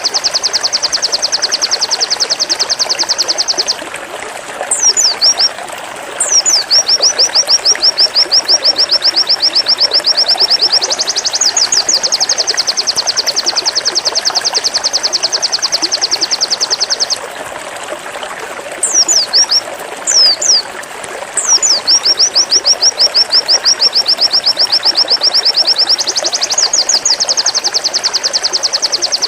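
White-eye (pleci) singing its 'zipper' song: long runs of rapid, evenly repeated high notes, each lasting several seconds. The runs are broken twice, about a quarter and two-thirds of the way through, by a few short falling whistles before the trill starts again. A steady hiss lies underneath throughout.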